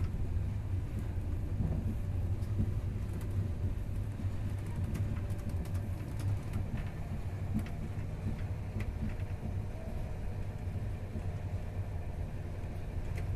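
Passenger train running, heard from inside the carriage: a steady low rumble with faint scattered clicks and knocks.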